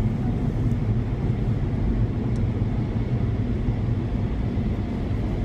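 Steady low rumble of automatic car wash machinery, heard from inside the car.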